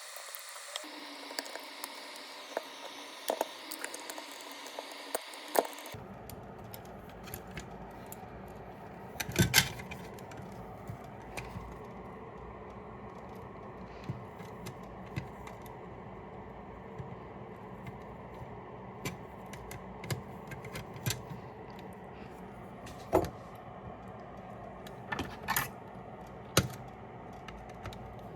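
Small tools and fingers clicking and tapping on the plastic housing and parts of wireless headphones as they are taken apart, scattered sharp clicks over a steady background hiss. The hiss is brighter at first and changes to a lower, fuller one about six seconds in.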